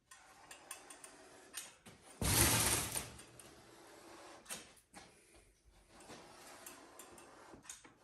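Hand work with a caulk gun and foamboard: scattered small clicks and rustles, with one loud scraping rush lasting under a second about two seconds in.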